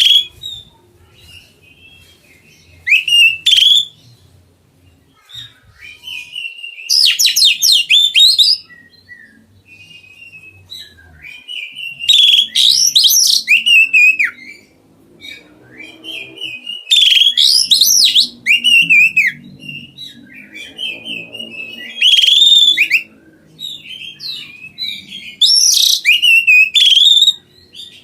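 Oriental magpie-robin (kacer) singing: loud bursts of rapid whistled and trilled song, each about a second long, repeating about every four to five seconds.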